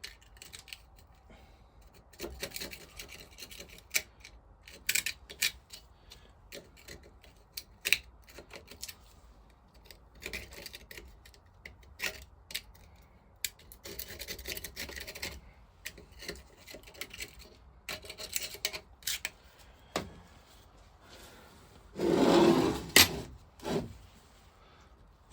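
Intermittent scraping and rubbing of metal on the Lister vaporiser's casting in short strokes, with sharp clicks of tools and parts. There is a louder, heavier scrape about three seconds before the end.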